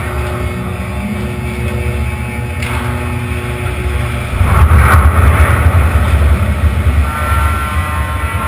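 Large ship being launched, with a steady deep rumble that swells loudest about four and a half seconds in.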